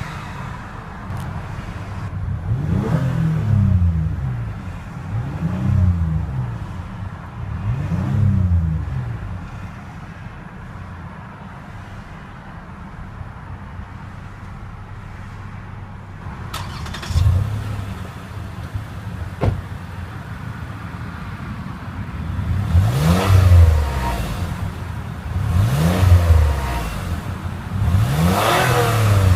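2015 Lexus RX 350's 3.5-litre V6 idling and being blipped: three quick revs that rise and fall back, a steady idle, then three more revs near the end.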